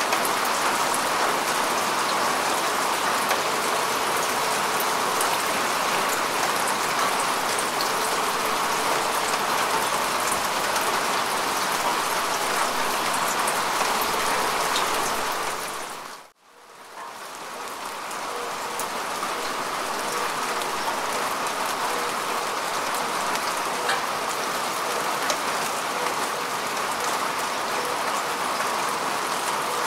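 Steady rain falling on grass and bare earth, an even hiss dotted with small drop ticks. About sixteen seconds in it fades briefly to near silence, then fades back up over a second or two.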